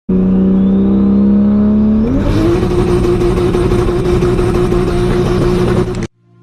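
Car engine held at steady high revs, then revved up about two seconds in and held at a higher pitch with more rushing noise, cutting off suddenly near the end.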